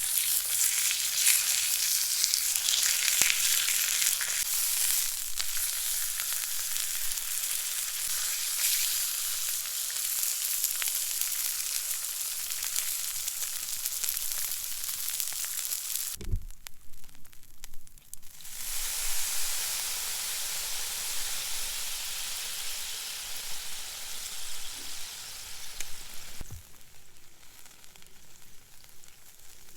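Steak sizzling and crackling on a hot pan over a campfire grill. The sizzle breaks off for about two seconds midway and is quieter near the end.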